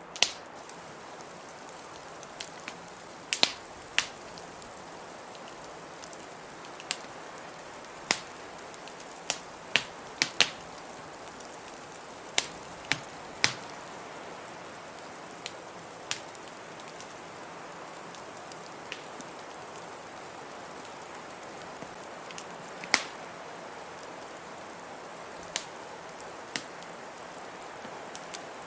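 Wood fire crackling in a fireplace: sharp, irregular pops and snaps, some in quick pairs, over a steady soft hiss.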